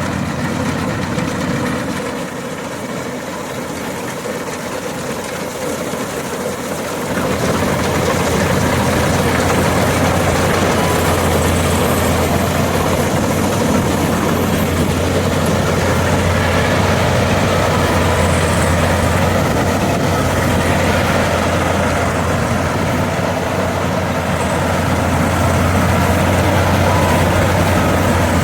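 88 hp World rice combine harvester running steadily, its engine growing louder with a strong low hum from about seven seconds in.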